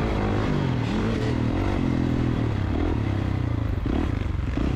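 KTM two-stroke dirt bike engine revving up and down repeatedly while being ridden.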